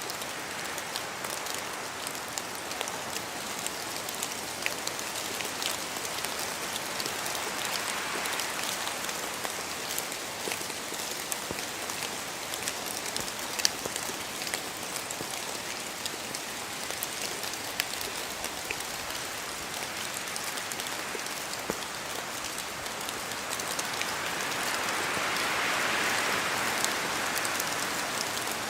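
Steady rain falling through spruce forest, with many single drops ticking sharply out of the hiss. Wind through the trees swells up briefly about eight seconds in and again, louder, near the end.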